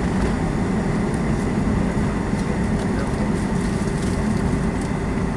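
Boeing 757-200's Pratt & Whitney engines running at low power, heard inside the passenger cabin as a steady low rumble with a faint whine and occasional light cabin rattles, typical of the aircraft taxiing before takeoff.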